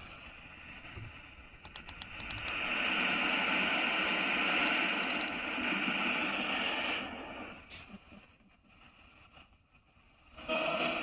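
Ghost box (hex box) sweeping radio static: a hiss with a few sharp clicks swells up about two seconds in, holds for several seconds, and falls away, returning briefly near the end.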